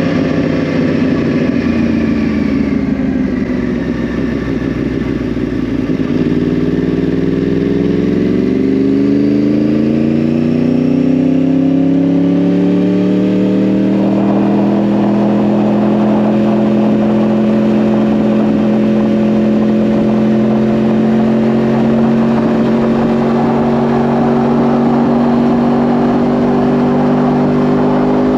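2010 Yamaha R1's crossplane inline-four through a Yoshimura exhaust: the engine note falls as the bike slows over the first few seconds, then climbs steadily under acceleration for about eight seconds, and then holds a high, nearly steady note while cruising at speed, with a rush of wind noise.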